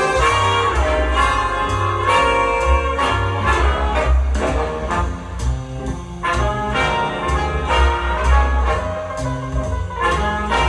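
Recorded music with brass and a strong, pulsing bass line, played through a pair of small bookshelf hi-fi loudspeakers.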